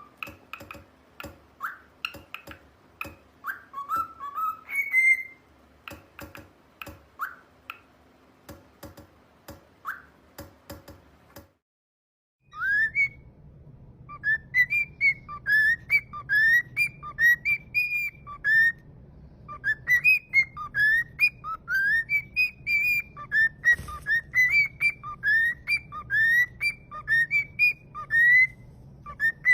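Cockatiel whistling. At first there are scattered short whistled chirps and clicks; after a cut about twelve seconds in comes a steady run of short, quickly rising whistle notes, about two a second, over a low background hum.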